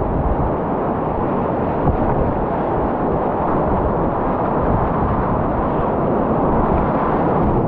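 Steady, loud rush of whitewater rapids, a dense churning noise without let-up.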